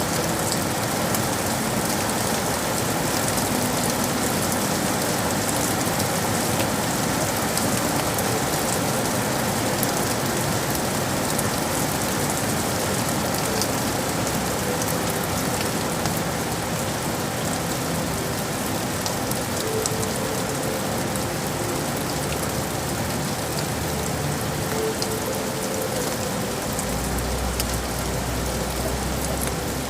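Steady heavy rain falling on hard surfaces: a dense even hiss dotted with the ticks of single drops. A low rumble comes in near the end.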